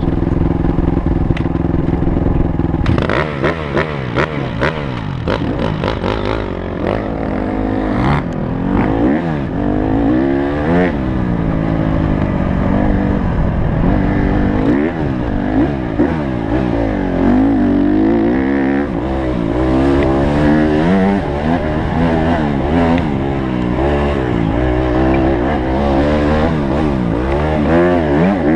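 Honda CRF150 motocross bike's four-stroke single-cylinder engine idling steadily, then about three seconds in it revs up and the bike rides off, its pitch rising and falling over and over with the throttle and gear changes.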